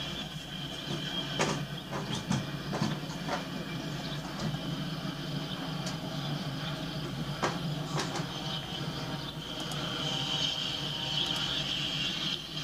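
Freight train of covered hopper cars rolling past, a steady rumble of wheels on rail with scattered sharp clicks, heard as playback through a computer's speakers.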